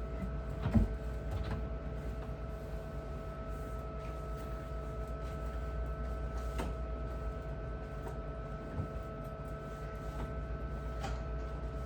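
A steady machine hum with a few constant tones over it, broken by occasional light knocks and clicks: about a second in, around the middle, and near the end.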